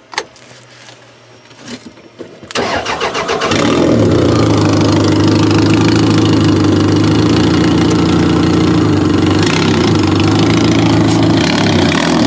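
A demolition derby car's toggle switches click, then about two and a half seconds in the starter cranks for about a second and the four-cylinder engine catches. It then runs steadily at idle.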